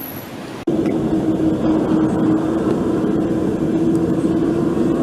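A motor vehicle running close by, a steady engine noise with a constant hum, starting suddenly about half a second in after quieter street background.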